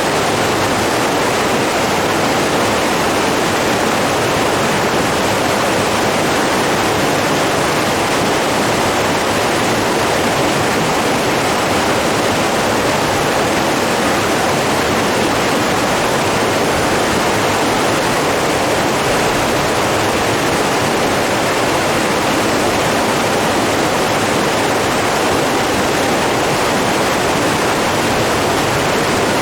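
Steady rush of flowing water, an even roar that holds unchanged throughout.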